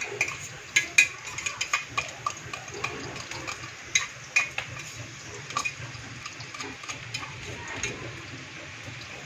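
Onions frying in oil in a pan with a steady faint sizzle, while a spoon clinks and scrapes against the pan. The clicks come thickest in the first few seconds.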